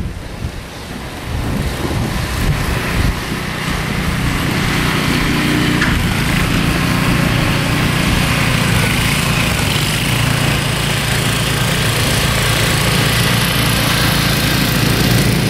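Small gasoline engine, typical of a snowblower, running steadily; it grows in over the first few seconds, with wind buffeting the microphone at the start.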